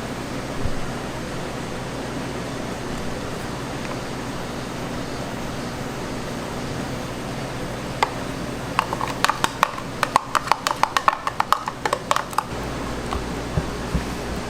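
Steady hum of a food-shop kitchen, then, about eight seconds in, some four seconds of quick light clicks and taps, around six a second, with a slight ring to them.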